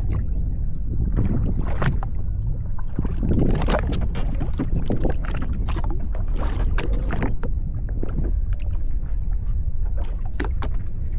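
Steady low rumble of wind on the microphone with irregular splashes and knocks of water against a small craft's hull.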